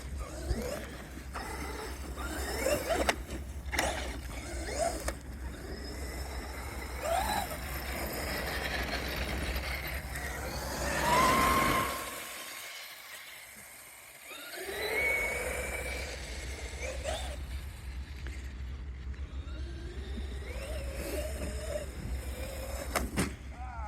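Large-scale RC cars driving through grass, their motors whining and sliding up and down in pitch as the throttle is worked. The sound drops away briefly about halfway through.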